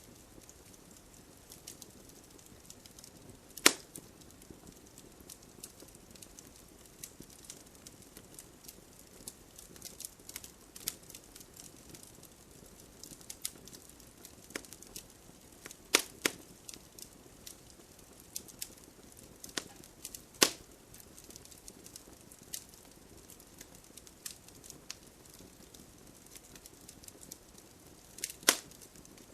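Campfire of burning wood crackling over a faint steady hiss, with irregular small snaps and a few louder pops: about four seconds in, around sixteen and twenty seconds, and a double pop near the end.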